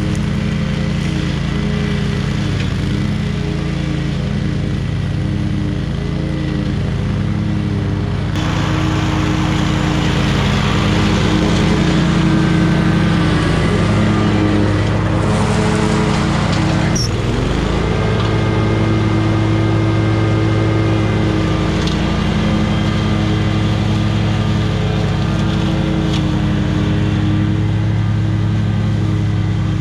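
Small gasoline engine of lawn equipment running steadily under load while cutting overgrown grass. The engine speed dips sharply partway through, then picks back up.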